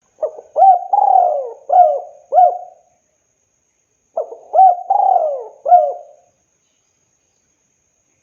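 Spotted dove (tekukur) cooing: two phrases of four or five coos each, about a second and a half apart, each phrase with one longer, drawn-out note near its middle.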